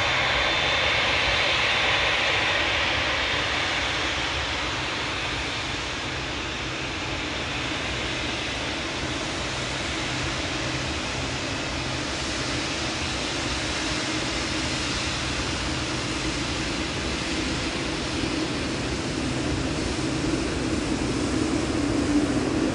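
Jet airliner engines running close by: a high whine, loudest in the first few seconds, fades into a steady rumble, with a lower hum building again near the end.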